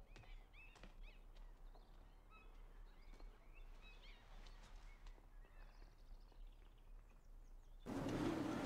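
Faint birdsong: scattered short chirps and whistles over a quiet background. Near the end a louder, steady low hum with a haze of noise starts abruptly.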